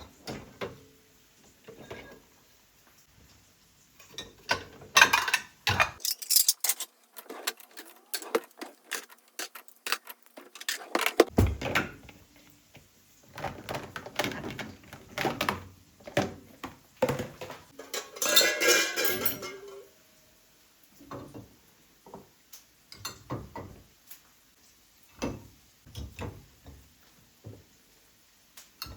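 Kitchen work sounds: dishes, pots and utensils knocking and clinking, in many separate sharp strokes, with a denser noisy stretch of about two seconds near the two-thirds mark.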